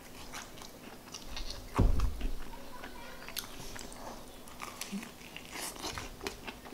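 Close-up eating sounds of a person biting into and chewing a gravy-dipped KFC fried chicken wing: many small crunches and crackles, with one louder low thump about two seconds in.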